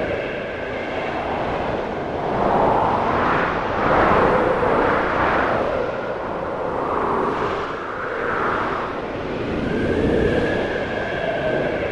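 Snowstorm wind howling and whistling in slow gusts, its pitch rising and falling, strongest about four seconds in.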